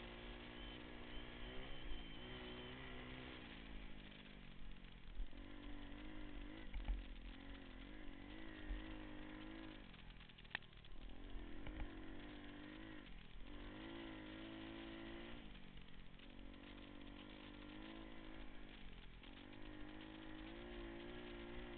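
Small pit bike engine being ridden, its pitch climbing and then dropping sharply over and over as the throttle opens and closes, about eight times. A single sharp click comes about halfway through.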